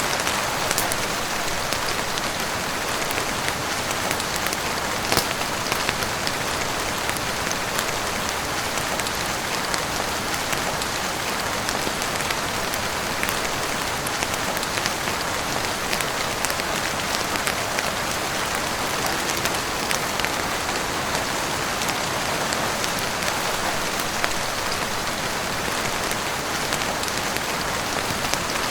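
Steady heavy rain on a roof, an even dense hiss, with scattered sharp crackles and pops from a wood fire burning in a fireplace.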